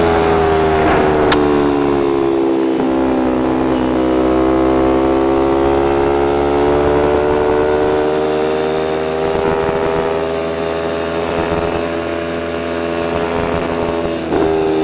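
Motorcycle engine running under way. Its pitch falls over the first few seconds as the bike slows, then climbs gradually and holds steady. It dips briefly near the end, as at a gear change, then rises again. A single sharp click comes about a second in.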